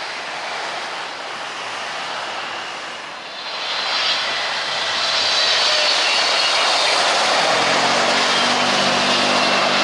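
Jet airliner landing, its engine noise swelling about four seconds in and then holding steady and loud as it passes, with a faint high whine.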